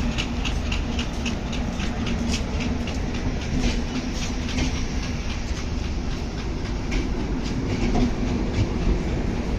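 Moitri Express passenger train rolling past with a steady low rumble, its wheels clicking over the rail joints in a quick even rhythm that grows fainter after about halfway.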